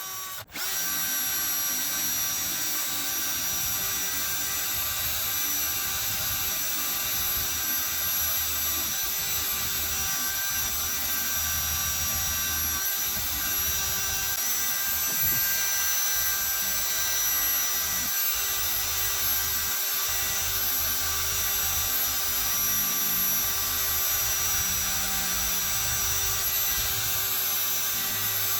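Electric power tool running steadily with a high whine, its spinning wheel working the rusty metal of an antique ice claw. There is a brief dropout about half a second in.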